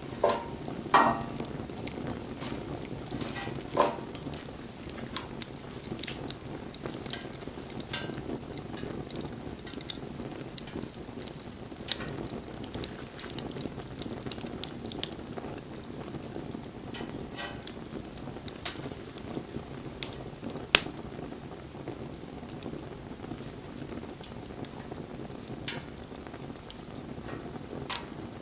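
Wood fire burning: a steady hiss with irregular crackles and sharp pops throughout, a few of them much louder snaps, the sharpest about three quarters of the way through.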